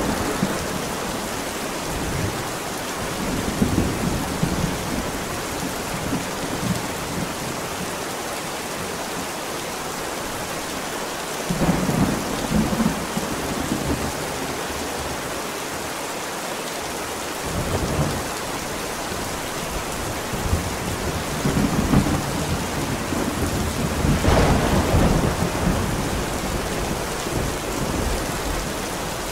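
Steady heavy rain with thunder rumbling several times: a few short rolls, at about twelve seconds and eighteen seconds, and a longer rolling peal about three-quarters of the way through.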